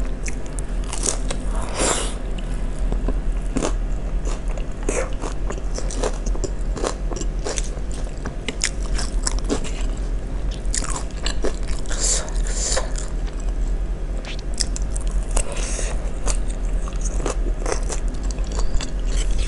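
Close-up biting and chewing of crunchy food: a peanut-sauce-coated kerupuk cracker and the pickled raw vegetables of Betawi asinan, with irregular sharp crunches.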